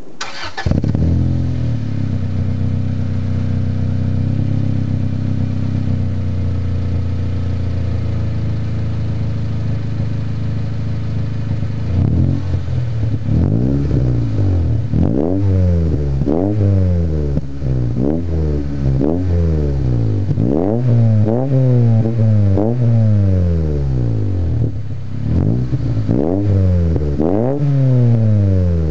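Honda Accord CD9 engine breathing through an Invidia N1 cat-back exhaust. It idles steadily, then from about twelve seconds in it is revved over and over in quick blips, about one a second, each rising and falling away.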